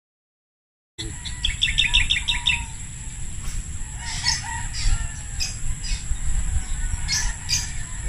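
Silent for about the first second, then outdoor pond-side ambience. Small birds chirp, with a quick run of about eight chirps near two seconds in, over a low rumble and a steady high-pitched hum.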